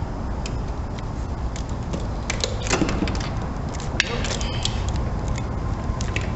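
Irregular metallic clicks and clinks of hand tools being handled in an engine bay, busiest in the middle, over a steady low rumble.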